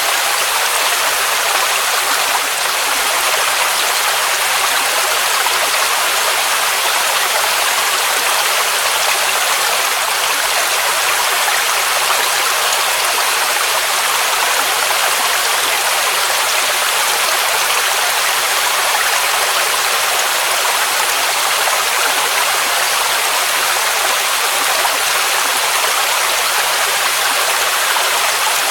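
Waterfall rushing, a steady hiss of cascading water that does not change, with most of its sound in the high range and little low rumble.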